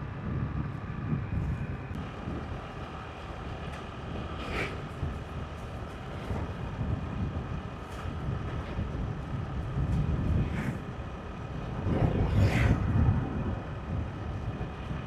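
Motorbike riding along a road: a steady engine hum and road noise, with wind buffeting the microphone. About twelve seconds in, a louder rush swells for a second or so before falling back.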